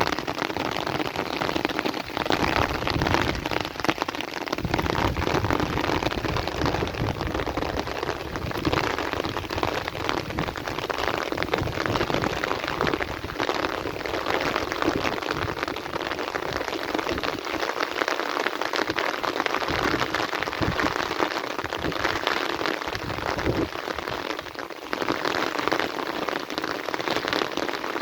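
Heavy rain falling steadily: a dense hiss of countless drops striking a surface, with a low rumble that swells and fades at times.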